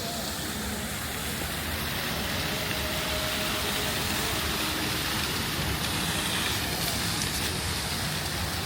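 Steady city street ambience: traffic noise, a continuous wash of passing vehicles and tyre noise.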